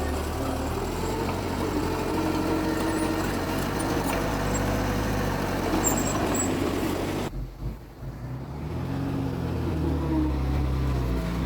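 Diesel engine of heavy earthmoving machinery running and working under changing load, cutting out sharply for about a second past the halfway point before it resumes.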